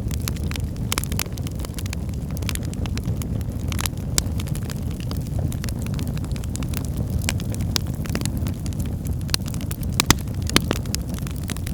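Wood fire burning in a fireplace: a steady low rumble of flames with irregular sharp crackles and pops from the burning logs, a few louder pops near the end.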